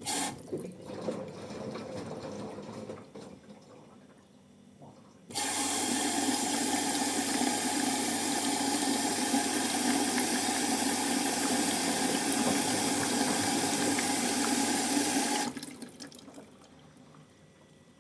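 Water running in a steady rush for about ten seconds, starting and stopping abruptly, with a faint hum beneath it. Before it come a few seconds of irregular splashing.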